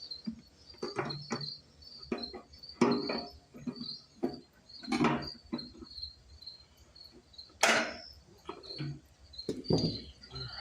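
Scattered clicks, clinks and knocks of hand tools and metal parts as the fuel tank of a small two-stroke generator is unbolted and lifted off; the sharpest click comes about three-quarters of the way through. Crickets chirp steadily behind it, about twice a second.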